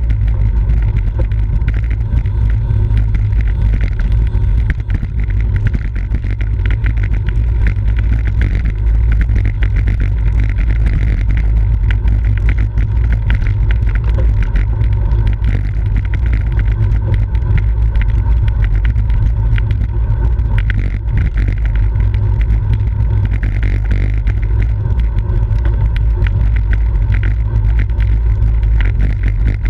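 Steady, heavy wind rumble on the microphone of a camera riding along in a bicycle race, with frequent small clicks and rattles over it.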